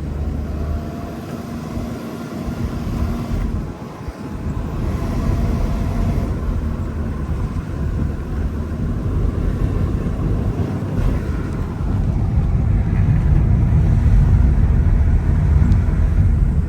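A vehicle on the move: a steady low rumble of engine, road and wind noise, growing louder about twelve seconds in.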